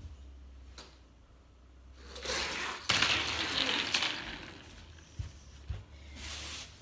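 Die-cast toy car rolling down a toy track ramp and clattering as it jumps and lands, with sharp clacks of impact about three and four seconds in.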